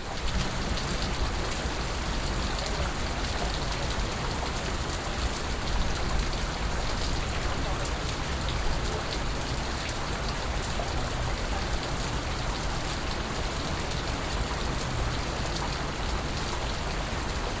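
Steady rain falling on a surface, with scattered individual drips and a low rumble beneath.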